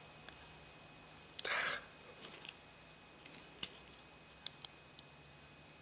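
Faint handling sounds from small-parts repair work: a few light clicks and taps, and one short rustle about a second and a half in.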